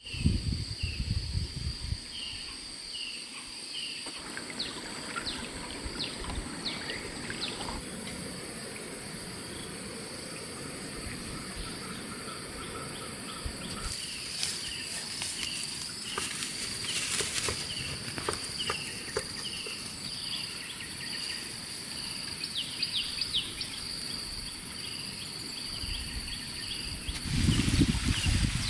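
Outdoor natural ambience: insects drone steadily at a high pitch, with short high chirps repeating about twice a second. Louder low rumbling noise comes in near the end.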